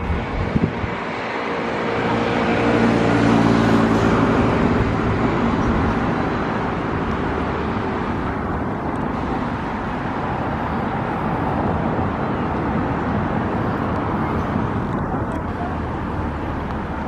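Steady city traffic noise with an engine passing close. Its hum is loudest about three to four seconds in and fades out by about eight seconds.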